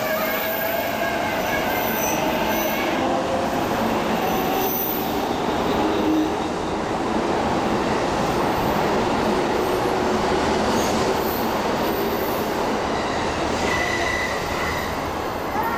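JR Keiyo Line E233 series electric train pulling out of the station alongside the platform: a steady, loud running noise of wheels on rails, with a faint rising motor whine in the first few seconds as it picks up speed. A brief high squeal comes near the end.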